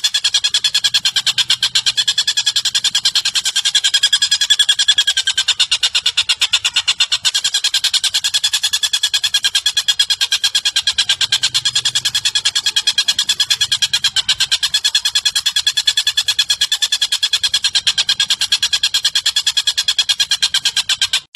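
Recorded bird call used as a training track: a fast, unbroken run of short, even, chattering notes, kept up without a pause.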